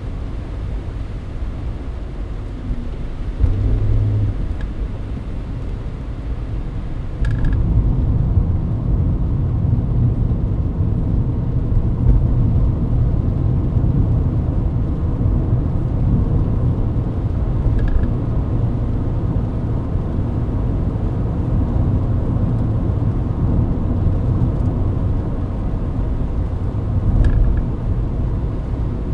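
Mercedes-Benz W124 E-Class driving, heard from inside the cabin: steady engine and road rumble that grows louder about seven seconds in and stays up.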